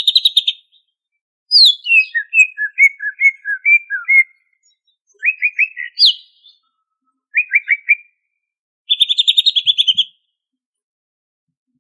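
Greater green leafbird (cucak ijo) singing in separate phrases with short pauses between them: a rapid trill, a falling sweep into a string of paired notes, clipped stuttering notes, and another fast trill near the end.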